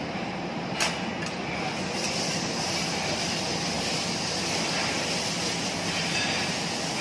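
Steady hiss of food sizzling on a teppanyaki griddle, with two sharp clicks about a second in, like a metal spatula striking the griddle.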